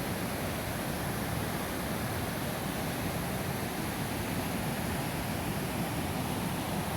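Snowmelt-swollen mountain creek rushing steadily, an even, unbroken noise of fast-flowing water.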